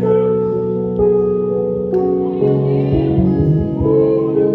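Church worship music: sustained keyboard chords changing about once a second, with singing.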